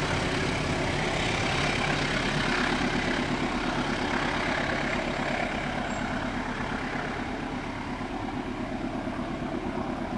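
A train passing close by: a steady low engine hum with a spread of rumbling wheel-on-rail noise, slowly fading.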